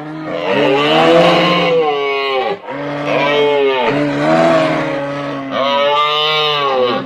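Sound-effect calls made for the extinct Hagerman horse (Equus simplicidens): a drawn-out, braying animal call on a steady low pitch, in several long phrases with a brief break about two and a half seconds in.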